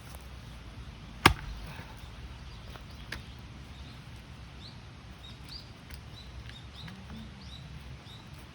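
A single axe blow striking a log of firewood, one sharp impact about a second in, followed by a fainter knock. Birds chirp briefly in the background.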